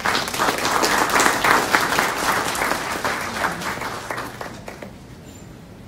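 Audience applauding, breaking out at once and dying away over about five seconds.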